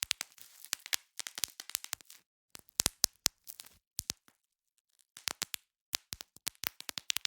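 Bubble wrap being popped: irregular clusters of sharp pops and crackles, with a short pause just past the middle.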